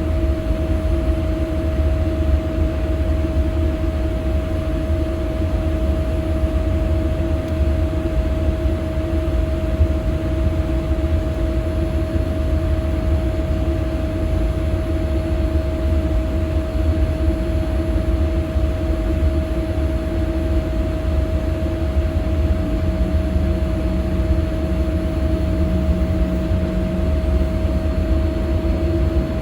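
Boeing 787 airliner's jet engines and airflow making a steady low rumble with a constant hum, unchanging throughout.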